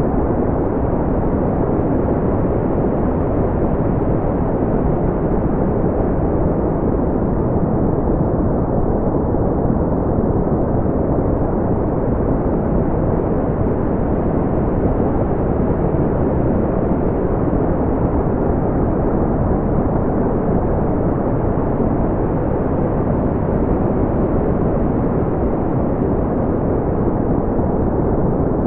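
Brown noise: a steady, deep rumbling hiss, strongest in the low range and fading out in the highs, unchanging throughout.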